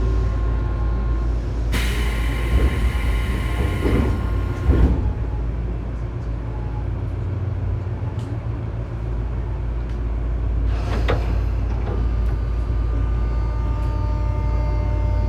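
Cabin sound of a Tobu 9000-series electric train standing at a station, its equipment giving a steady low hum. About two seconds in, a burst of hiss with steady tones lasts about three seconds, typical of the doors closing. A brief sharp noise comes near eleven seconds, and right at the end the armature-chopper motor whine starts to rise as the train pulls away.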